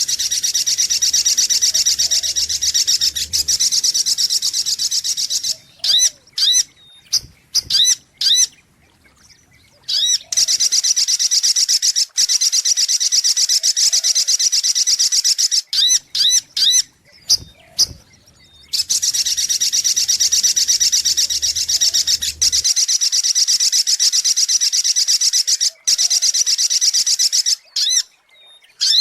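Sogok ontong (little spiderhunter) lure-call recording: long, rapid, high-pitched trills lasting several seconds each, heard three times. Short sharp chirp notes fall in the gaps between the trills.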